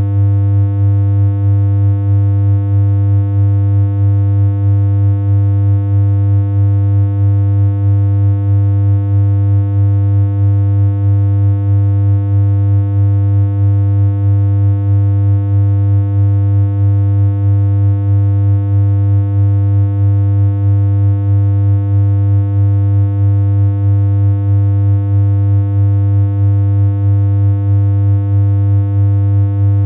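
Synthesized electronic hum: one steady low tone with a stack of buzzy overtones, unchanging in pitch, with a slight regular pulse in loudness about twice a second.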